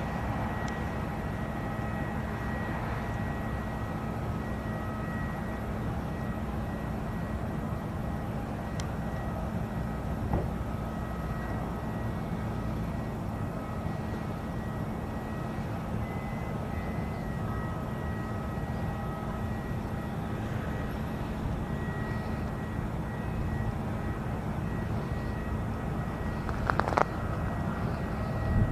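Distant drone of a Cessna 172S Skyhawk SP's four-cylinder piston engine and propeller, steady and growing louder near the end as the plane comes closer.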